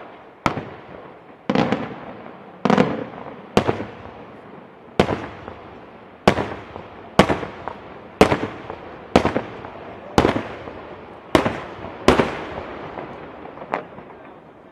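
Aerial firework shells bursting in a steady series of loud bangs, about one a second, each followed by a fading echo.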